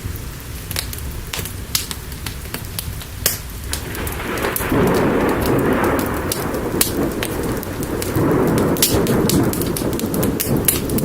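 Steady rain with scattered sharp crackles, and a long roll of thunder that swells in about halfway through and rumbles on to the end.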